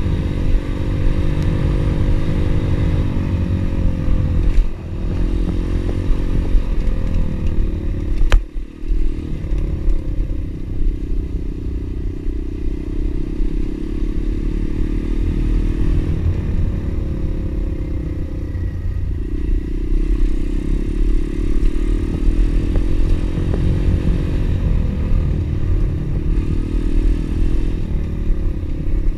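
Small single-cylinder pit bike engine running under way, its pitch rising and falling with the throttle. A sharp knock comes about eight seconds in, followed by a brief dip in the engine sound.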